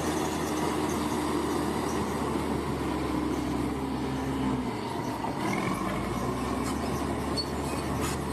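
Bulldozer at work: its diesel engine running steadily, the low note dropping briefly about five seconds in, with faint metallic squealing of the steel tracks.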